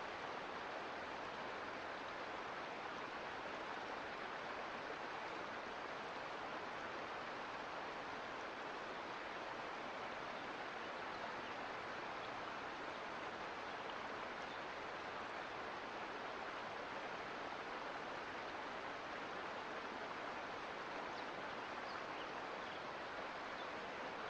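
Mountain creek running over rocks: a steady, even rush of flowing water.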